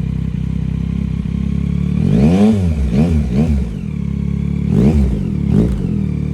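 2023 Yamaha XSR900's 890 cc inline-three engine through a Leo Vince LV1 Race exhaust with its dB killer cut 2 inches short, idling steadily, then blipped about five times from about two seconds in, each rev rising and falling quickly.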